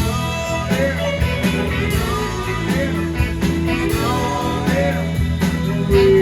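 A live rock band playing an instrumental passage, a guitar holding and bending notes over bass and a steady drum beat.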